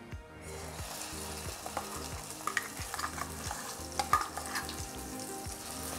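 Ground masala paste sizzling as it hits hot oil in an aluminium kadhai, starting about half a second in and frying steadily. A few clinks of the steel spoon against the pan are heard over it.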